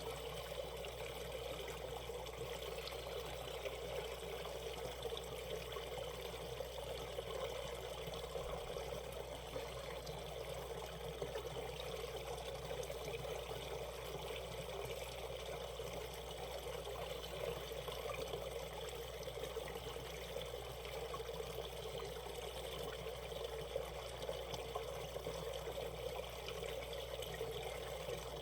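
Shallow valley stream running over a riffle, a steady, even rush of water.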